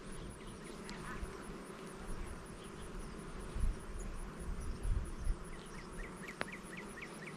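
Swarm of honeybees buzzing steadily at an open, freshly smoked hive, with a few low rumbling surges. Near the end comes a quick run of about eight short high chirps and a sharp click.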